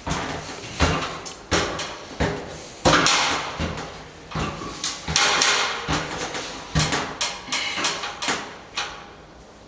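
Irregular knocks, bumps and scrapes as a plaster repair piece is handled and pushed up into place. The knocking dies away near the end.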